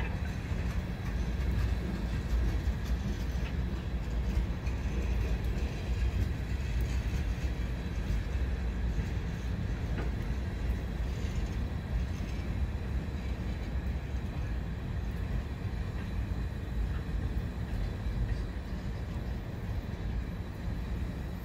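Freight train cars, first boxcars and then centerbeam flatcars loaded with lumber, rolling past on the rails with a steady low rumble and a few faint clicks.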